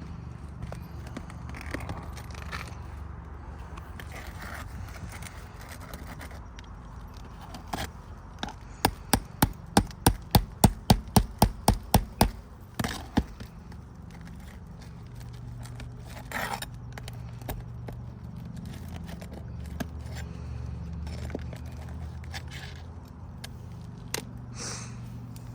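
A quick run of about a dozen evenly spaced hammer blows, about three a second, a third of the way in, during roof shingle repair work. Scattered scrapes and clicks of the work come before and after, over a low steady rumble.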